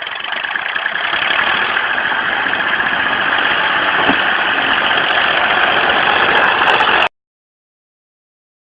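A vehicle engine running steadily and loudly, building up over the first second. It cuts off abruptly to dead silence about seven seconds in.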